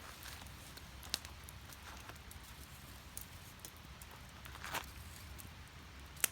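Split firewood burning in a small steel fire pit. The fire gives a steady low rumble, with sharp crackling pops about a second in and a louder one near the end, and a short hiss just before three-quarters of the way through.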